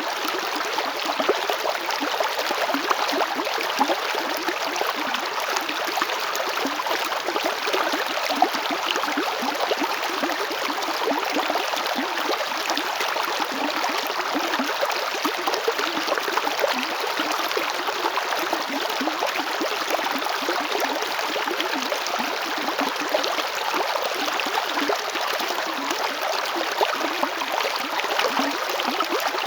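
River water flowing steadily over rocks, a continuous rushing and gurgling with no change in level.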